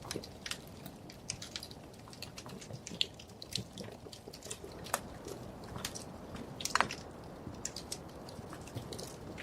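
Wood fire crackling in a fireplace: irregular sharp pops and snaps over a soft steady hiss of burning, with a louder pop about five seconds in and another near seven seconds.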